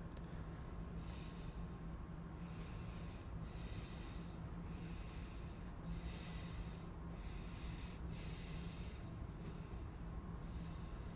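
Hands rubbing oil into bare skin on a foot: repeated soft swishing strokes, about one a second, with faint squeaks of skin. A steady low hum runs underneath.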